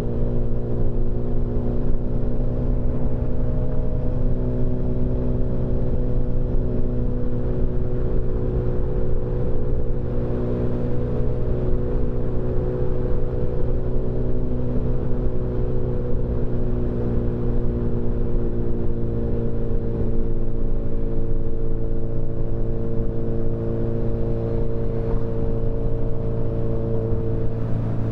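Motorcycle engine running at a steady cruising speed, its pitch holding nearly constant with only slight drifts, over a low rumble.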